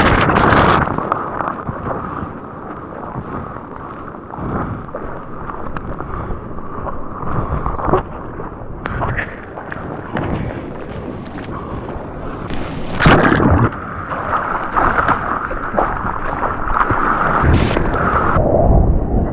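Ocean water sloshing and splashing right against the microphone in the surf, with wind buffeting it; rough and uneven, with a loud splash about 13 seconds in.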